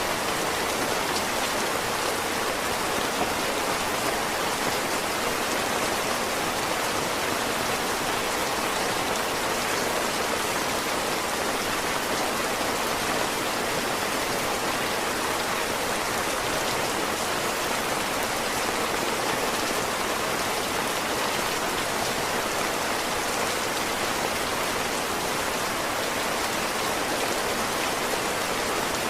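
Heavy rain falling steadily, an even, unbroken hiss of rain with no distinct drops or other events.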